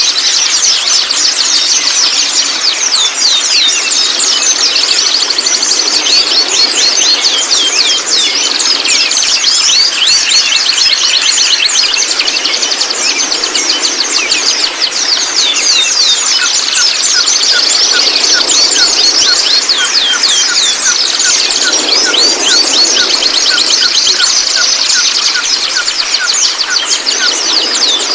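Juvenile white-rumped shama (speckled 'trotol' young) giving a dense, continuous stream of rapid high chirps and twitters. About halfway through, a run of lower, short, evenly spaced notes, around three a second, joins in.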